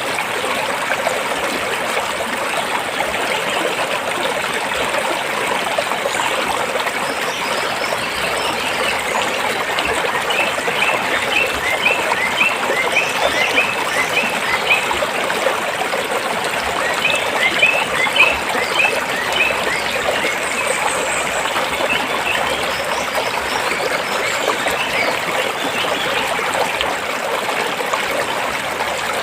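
Stream water flowing and trickling over rocks, a steady splashing rush. Twice, about ten and seventeen seconds in, a quick series of short high chirps sounds over it.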